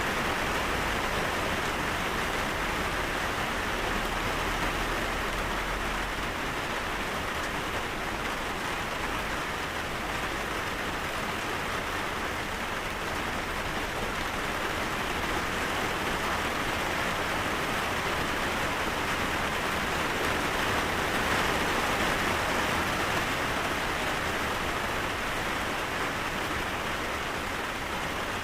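Steady rainfall pattering on surfaces, an even continuous hiss without pauses or distinct drops standing out.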